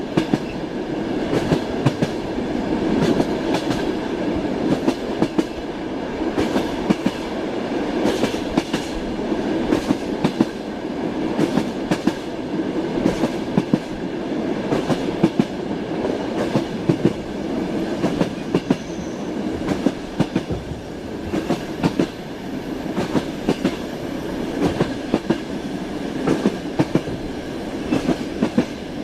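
Train wheels clicking over rail joints while the carriage rolls along, heard from inside a passenger compartment: a steady rumble with frequent sharp clicks and knocks.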